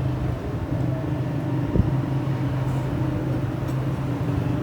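Workshop machinery running with a steady, low hum, with a single sharp knock a little under two seconds in.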